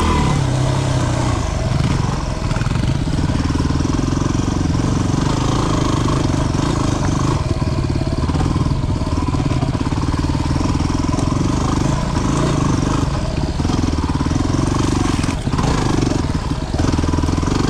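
A 250 cc single-cylinder dual-sport motorcycle engine running while riding a trail, its pitch rising and falling as the throttle is opened and rolled off, with a few brief dips.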